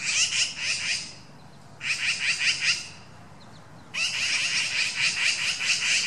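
Small birds singing: fast, dense twittering chatter in three bouts, the first two about a second long each, the third starting about four seconds in and going on.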